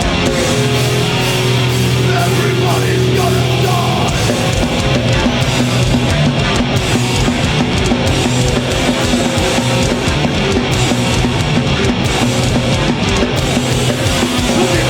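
Live heavy metal band playing at full volume: distorted electric guitars, bass and drum kit in a fast, dense groove.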